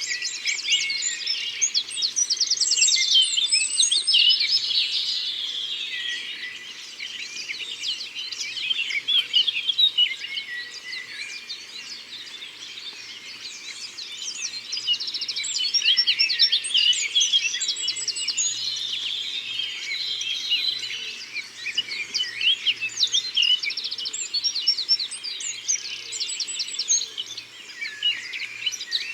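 Many birds singing at once in a forest, a dense mix of chirps, twitters and fast trills with no one call standing apart, louder around the start and again past the middle.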